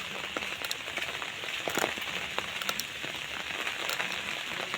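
Steady rain falling, with scattered single drops ticking close by; one sharper drop hit about two seconds in.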